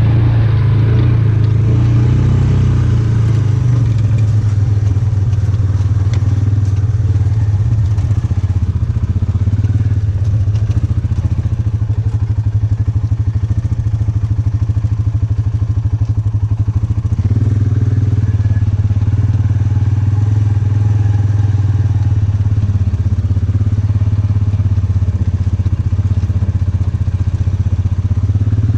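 Polaris utility vehicle's engine running steadily at low speed as it crawls along, a loud continuous low hum.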